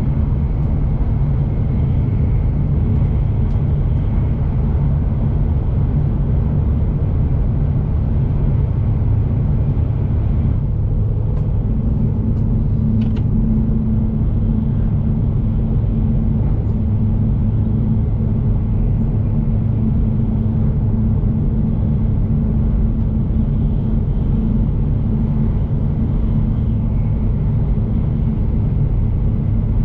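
Shinkansen bullet train running at speed, heard from inside the passenger cabin as a steady, loud low rumble. A steady low hum grows stronger about twelve seconds in.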